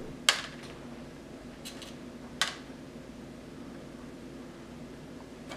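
Quiet room tone with a steady low hum, broken by a few short light clicks in the first half.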